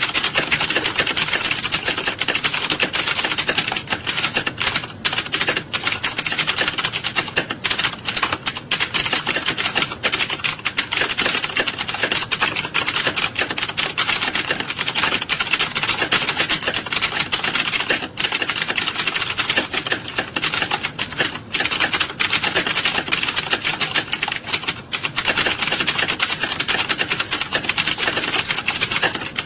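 Many computer keyboards being typed on at once, a dense, continuous clatter of overlapping keystrokes with no pauses.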